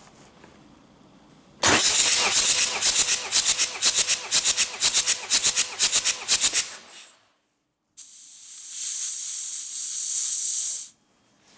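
Hyundai D4BH four-cylinder diesel being cranked on the starter for about five seconds, a rhythmic chuffing of compression strokes with a faint starter whine under it, as for a compression test. Near the end the cranking stops and a steady hiss runs for about three seconds.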